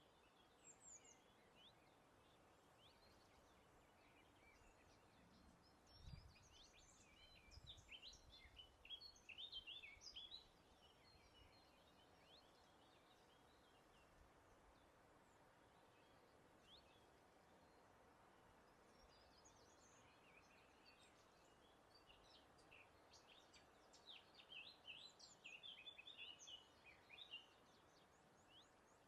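Faint birdsong: small birds chirping and twittering in two spells, one about five seconds in and another from about twenty seconds, over a soft steady hiss of breeze. A couple of soft low thumps come about six and seven seconds in.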